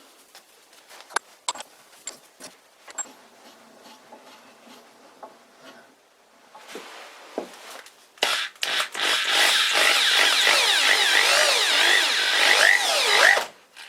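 Steel drill arbor spinning in its steel holder with a loud screech whose pitch wavers up and down, for about five seconds before it stops abruptly: the plain steel-on-steel bearing galling and seizing. Light clicks and handling noise come before it.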